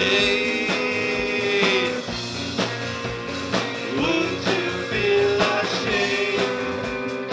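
Live rock band playing a song with guitars and drums and a steady beat, a long note held over the first two seconds.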